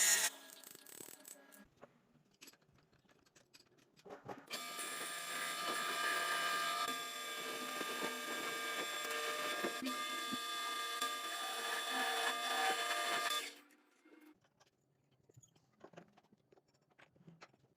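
An electric power tool motor runs steadily for about nine seconds, starting and stopping abruptly. Light clicks and knocks of tools being handled come before and after it.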